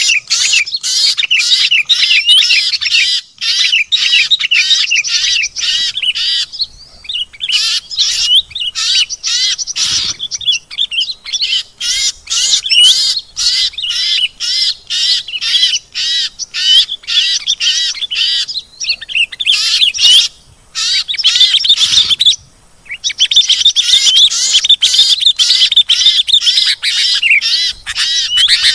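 Dense chorus of many small songbirds chattering and chirping over one another in rapid, high-pitched notes: a mixed bird-lure recording of agitated birds. It breaks off briefly twice about two-thirds of the way through.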